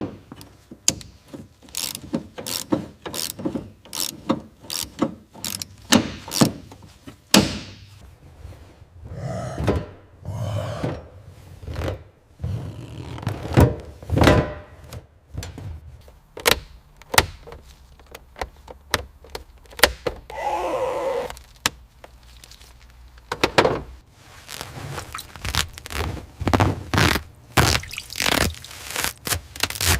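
Restoration work on a rusted car body: a run of irregular knocks and thunks, several a second, with stretches of scraping between them.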